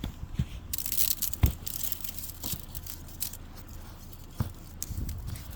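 Ice glaze from an ice storm being broken up: a run of sharp cracks and crunches, densest about a second in, with single louder snaps about one and a half and four and a half seconds in.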